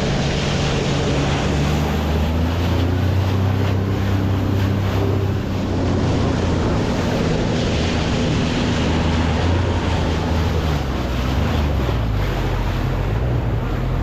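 A boat engine running steadily at low revs, with wind buffeting the microphone and water noise around the hull.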